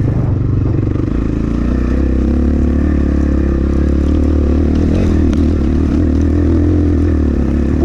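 Templar X 250 dirt bike engine running steadily on a rough trail, with wind buffeting the helmet-camera microphone and a brief clatter about five seconds in.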